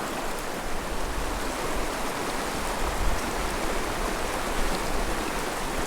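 A mountain river flowing: a steady rush of water.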